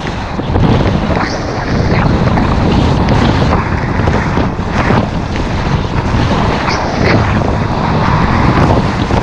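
Loud, steady wind buffeting the microphone, a dense rushing noise with a few brief brighter swishes.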